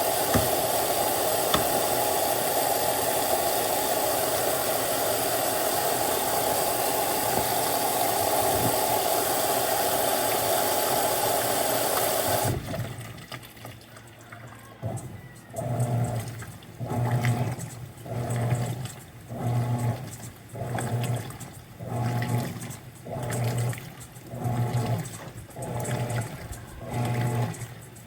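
Mueller Popmatic 8 kg washing machine filling: water rushes in steadily, then stops suddenly about halfway through. The agitator then starts, its motor humming in pulses about once a second as it swings back and forth through the water.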